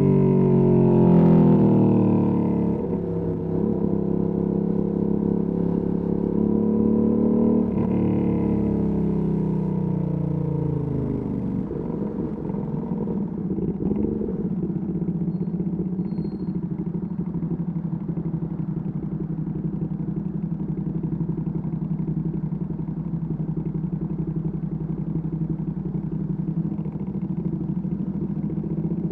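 Ducati Panigale V2S V-twin through a Termignoni exhaust, the engine note falling as the bike slows, picking up gently, then dropping away again. From about twelve seconds in it settles into a steady idle.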